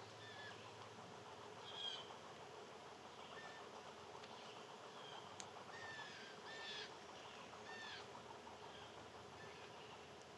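Small birds chirping faintly: short, downward-sliding chirps repeated at irregular intervals, most thickly around two-thirds of the way through, over a faint steady background hiss.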